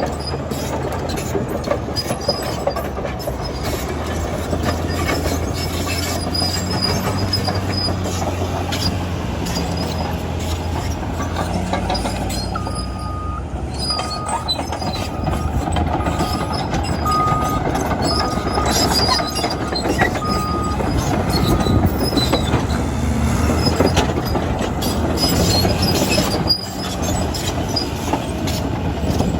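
Caterpillar D8T bulldozer working: the diesel engine runs steadily under the clanking and intermittent squealing of its steel tracks. A series of short beeps, about one a second, sounds for several seconds midway.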